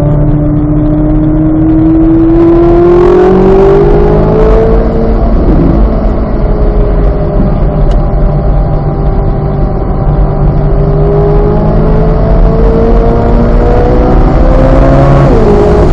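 Corvette Z06's 5.5-litre flat-plane-crank V8 pulling hard under acceleration, its note climbing steadily through the revs over wind and road noise. The pitch breaks about five seconds in, then climbs again for about ten seconds before dropping sharply near the end, as at a gear change.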